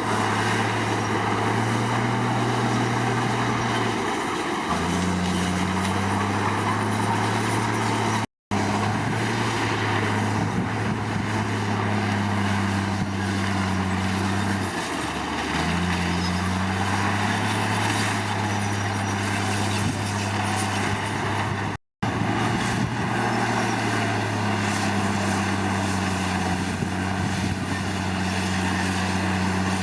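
Komatsu D53 crawler bulldozer's diesel engine working under load, its pitch dropping and picking up again a few times, over a steady wash of machinery and track noise. The sound cuts out for a split second twice.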